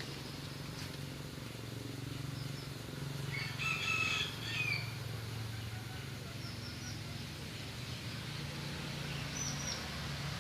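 A bird calls loudly for about a second and a half, starting about three seconds in. A few brief high chirps follow later, over a steady low hum.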